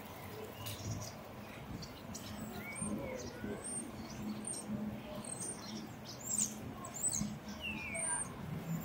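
Birds chirping and squeaking in many short, high calls, some sweeping down in pitch, over a low street background.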